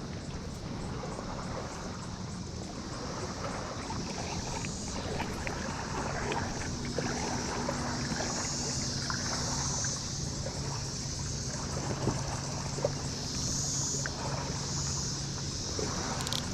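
Periodical cicada chorus: a steady high-pitched drone that swells louder and fades back several times. Under it are wind noise on the microphone and the wash of water around a kayak.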